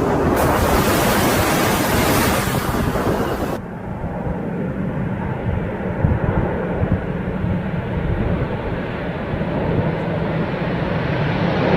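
Jet engine noise from the Boeing 747 Supertanker's four engines. A loud rushing roar cuts off abruptly about three and a half seconds in, giving way to a lower, steady rumble with a hum under it.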